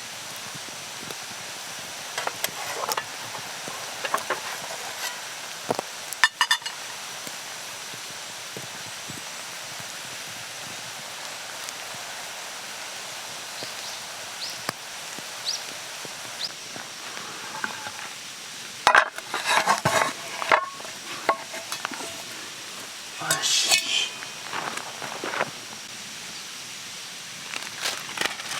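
Food sizzling in a hot pan over a campfire, a steady hiss, with metal utensils clinking and scraping against the pan now and then, busiest about two-thirds of the way through.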